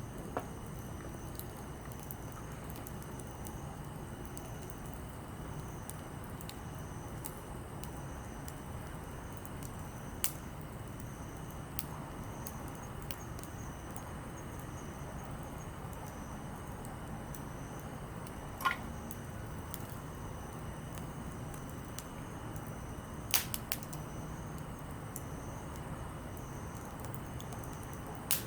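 Softwood and hardwood campfire burning with a low steady rush, broken by a few sharp, scattered pops and crackles, one of them ringing briefly.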